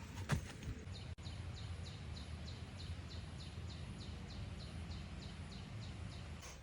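A regular series of short, high chirps, each sliding down in pitch, about three a second, over a low steady background rumble, with one sharp click about a second in.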